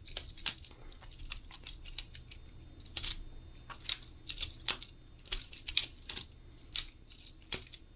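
Boker Plus balisong butterfly knife being flipped: a run of sharp, irregular clicks and clacks as the handles and blade swing around and knock together.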